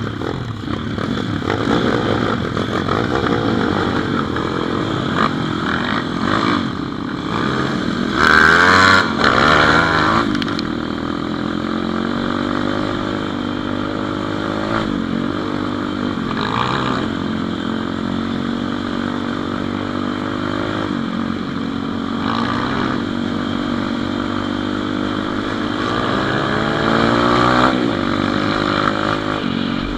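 Single-cylinder pit bike engine running under way, its revs rising and falling again and again. It revs hardest about eight to ten seconds in.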